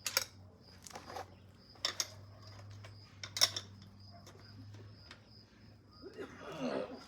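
Wrench working a bike's wheel axle nut: a handful of sharp metal clicks and clinks spread over the first few seconds, the loudest about three and a half seconds in. Near the end comes a short call or voice that glides in pitch.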